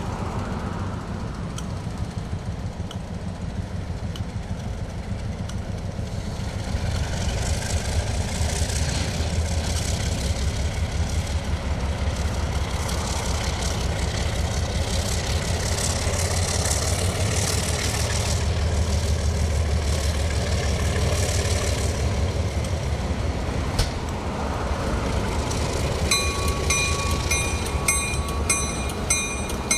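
Diesel freight train passing: a steady low locomotive engine rumble and wheel-on-rail noise that builds and holds, with a bell starting to ring steadily near the end.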